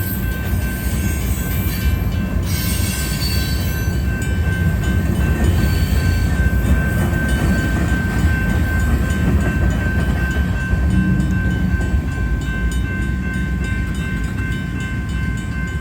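Freight cars at the tail of a manifest train rolling slowly past: a steady low rumble of wheels on rail, with a brief hissing squeal early on and a steady high tone throughout.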